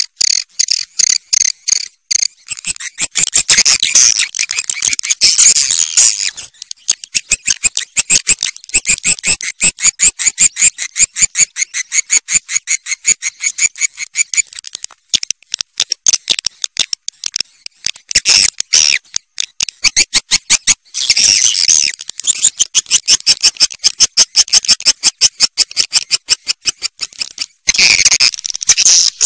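Swiftlets twittering: rapid trains of sharp, high chirps and clicks in bouts of several seconds with brief breaks. It is a swiftlet call recording of the kind played to draw the birds into nesting houses.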